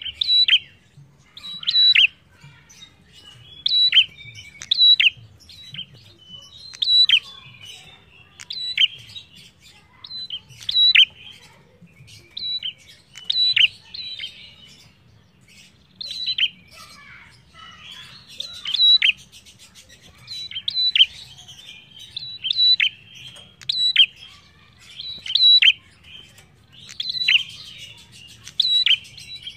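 Caged prenjak calling over and over: loud, short, sharp chirps that fall in pitch, about one every one to two seconds, often in pairs.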